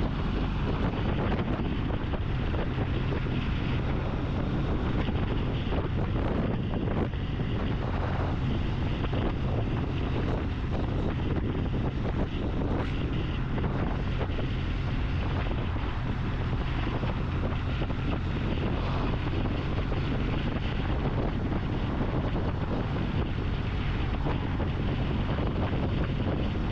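Steady wind rush over the microphone of a moving Triumph motorcycle being ridden at speed, with the engine and road noise as a low hum underneath.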